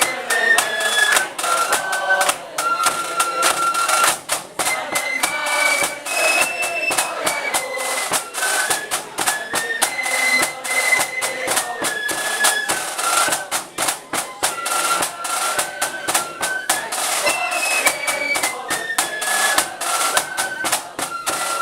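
Marching flute band playing a tune: flutes carry a high stepping melody over a steady, rapid beat of drums.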